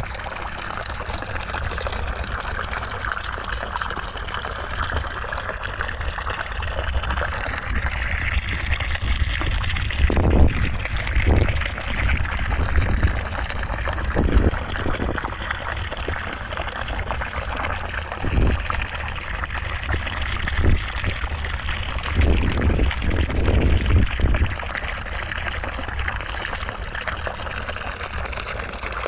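Steady white-noise track of rushing, water-like noise that keeps an even level throughout. A few soft low bumps come through in the middle.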